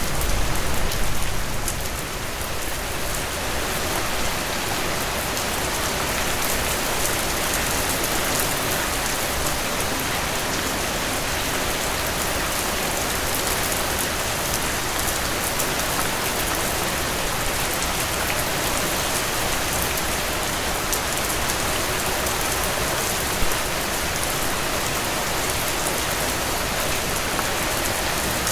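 Heavy rain pouring down steadily on surfaces, a dense even hiss of drops, with a little more low rumble in the first two seconds.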